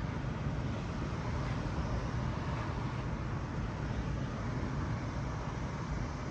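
Steady road noise of a car being driven, a low rumble with an even hiss above it.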